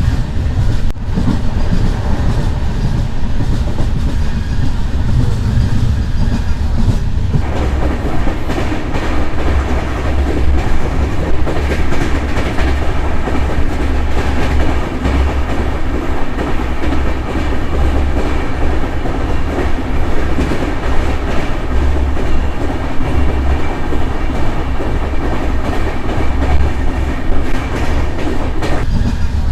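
Running noise of a moving express train with LHB coaches: a steady low rumble and rattle of wheels on the track. The noise gets louder about seven seconds in and stays that way.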